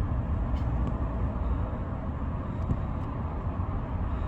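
Steady low rumbling outdoor background noise, with a few faint clicks and no clear engine note.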